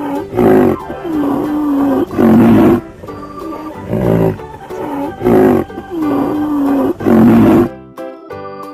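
Deep, loud rhinoceros calls, a few bellowing calls and a wavering held call in a pattern that repeats about every five seconds, over steady background music. The calls stop near the end.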